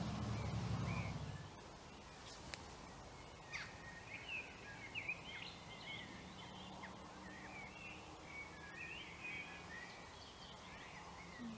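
Faint woodland birdsong: short chirps and quick warbling phrases, starting about three and a half seconds in and going on through the rest. Before that, a low steady hum stops about a second and a half in.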